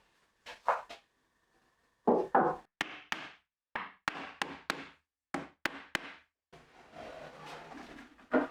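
Wooden cabinet parts knocking and clunking together in a run of short knocks, a few with sharp clicks, followed near the end by a softer continuous rubbing of wood on wood.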